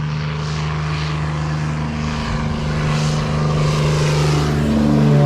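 Yamaha Ténéré motorcycle engine running through a Coyote aftermarket exhaust, holding a steady note, then revving up with a rising pitch near the end.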